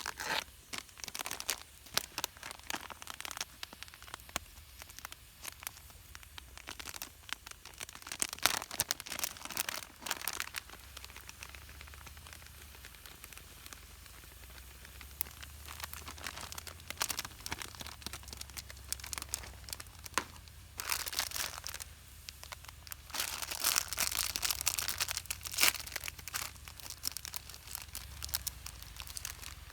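Crinkly material being handled: irregular rustling, crinkling and small clicks in several spells.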